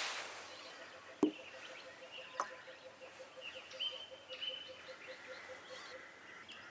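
Bush ambience with birds calling in short whistled notes, over a steady run of soft ticks about five a second. A sharp click sounds a little over a second in, and a softer one about two seconds later.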